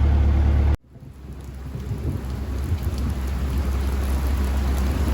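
Heavy rain falling, with a deep steady rumble underneath. The sound cuts out abruptly less than a second in, then the rain fades back up over the next few seconds.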